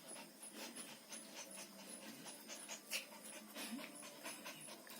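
A pet dog panting quickly and faintly.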